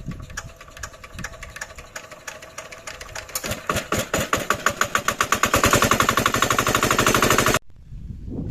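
Diesel engine of a water-pump set firing with a rapid, even knock that speeds up and grows louder from about three seconds in, then cuts off abruptly near the end.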